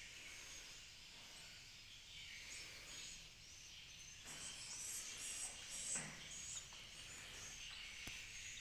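Swiftlets twittering: many short, high chirps overlapping, faint.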